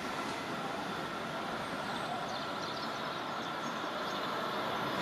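A train approaching on the line: a steady rail noise with a faint even whine, slowly growing louder.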